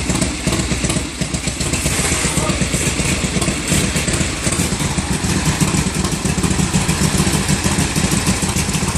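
Motorcycle engine running steadily with a rapid low exhaust beat.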